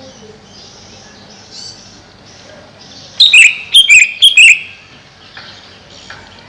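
Greater green leafbird calling: a quick burst of loud, sharp, high notes about three seconds in, with soft twittering before and after.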